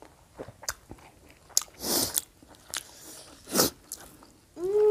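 Close-up mouth sounds of people eating rice and curry by hand: chewing and crunching with small wet clicks, and two louder bursts about two seconds and three and a half seconds in.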